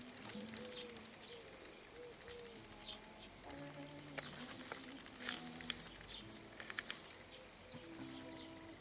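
High-pitched, rapid pulsing trills of an insect such as a bush cricket, in bursts of one to two seconds with short gaps, loudest about five seconds in.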